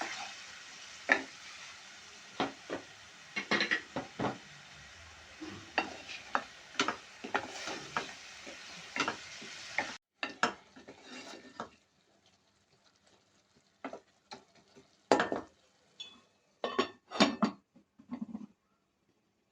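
A spoon stirring and scraping food that sizzles as it fries in a pan, with frequent clinks of metal on the pan. About halfway through the sizzle cuts off abruptly, and only a few separate clanks of the utensil against the pan follow.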